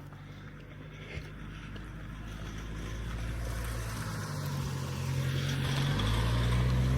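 A car approaching at low speed, its engine and tyres growing steadily louder as it draws near, the engine note stepping up a couple of times.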